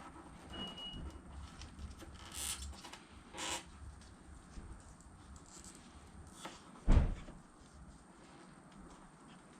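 Light workshop handling sounds as tools and parts are moved during front brake caliper removal: scattered soft knocks and rustles, two short scrapes a few seconds in, and one heavier low thump about seven seconds in.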